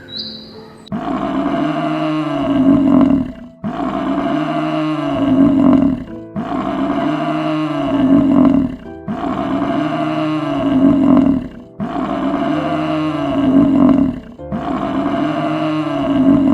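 A deep animal roar, repeated six times at even spacing about every two and a half seconds, each call rising and then falling in pitch, with background music under it.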